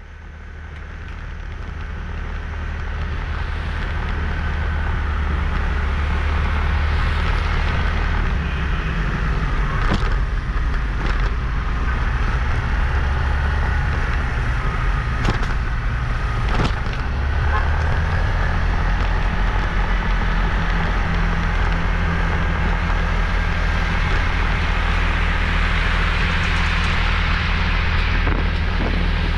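Motorbike engine with road and wind noise heard while riding, fading in over the first few seconds and then running steadily. A few sharp knocks come around the middle.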